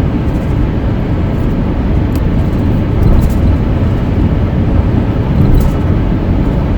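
Steady road and engine noise of a car driving at speed, heard inside the cabin: a constant low rumble with no change in pitch.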